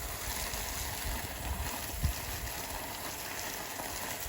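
Steady hiss of water spraying from a garden hose during watering, with low rumbling wind or handling noise on the microphone and a short bump about two seconds in.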